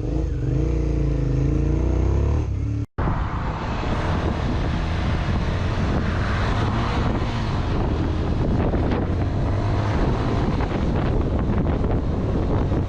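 Motorcycle riding at speed: a steady low engine rumble under heavy wind noise on the microphone. Before this, after a brief dropout about three seconds in, an engine runs at low revs with a wavering pitch.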